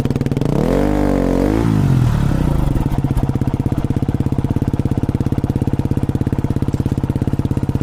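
Off-road motorcycle engine, just started, revved briefly twice and then settling into a steady idle.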